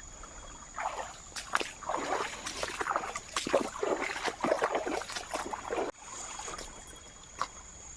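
Water sloshing and splashing in irregular bursts for about five seconds, then dying away, over a steady chirping of crickets.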